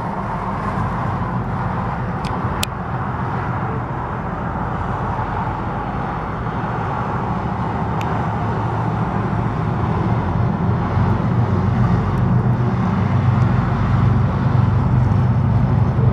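Diesel locomotive engine running with a steady low drone that grows louder over the last several seconds, with a couple of brief sharp metallic clicks.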